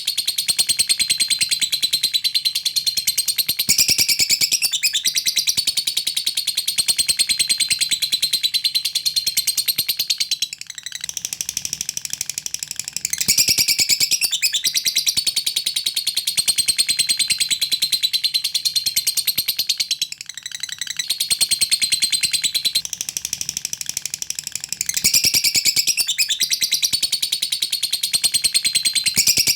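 Lovebird giving its long chattering song (ngekek): a fast, continuous run of high-pitched chirps, with brief breaks about ten and twenty seconds in.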